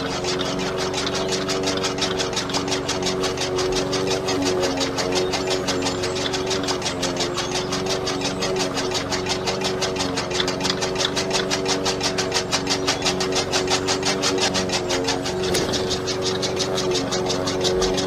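Small electric motor running a miniature belt-driven chaff cutter: a steady whine with a rapid, even ticking from the spinning flywheel cutter as it chops grass. The whine dips briefly in pitch near the end.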